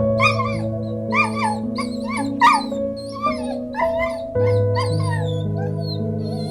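An animal's short, high, pitch-bending whining calls repeated in quick succession, over soft background piano music.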